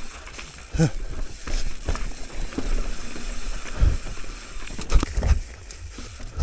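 Mountain bike rattling and clattering over a rough, rocky trail, with scattered knocks and heavy thumps around four and five seconds in.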